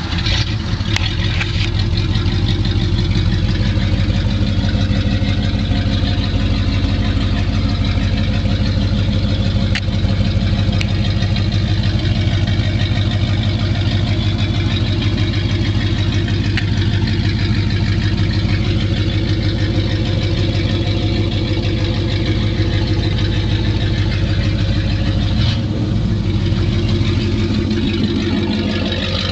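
An engine running steadily at idle, with an even pulsing beat, just after being started.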